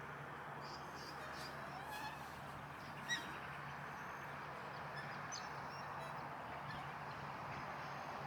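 Wetland birds calling: scattered short chirps and one louder call about three seconds in, over a steady background hiss and low hum.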